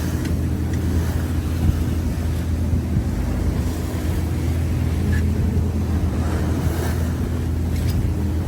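Trawler's engine droning steadily under way, with wind on the microphone and waves washing against the hull in rough seas; the wash swells and fades a few times.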